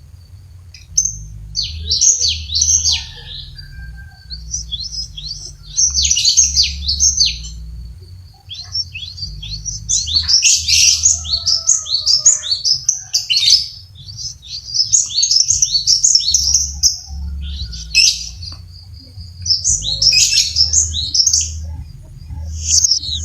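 Cinereous tit (glatik batu) singing in bursts of rapid, high chattering phrases, each a few seconds long with short pauses between, over a steady low hum.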